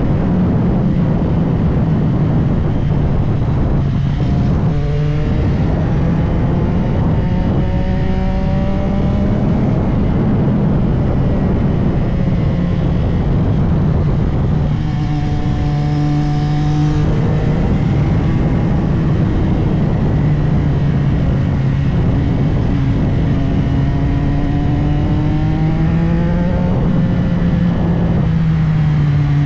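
CFMOTO 675SR-R's three-cylinder engine under riding load, its pitch climbing and then dropping at gear changes several times, over steady wind rush.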